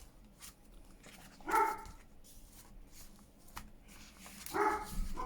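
A pet in the room gives two short, high-pitched whining calls, one about a second and a half in and one near the end, with a few light clicks between them.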